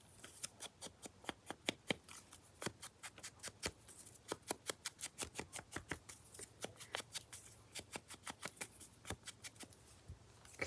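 Ink pad dabbed quickly along the edge of a piece of paper to ink it, a faint run of soft taps about five a second.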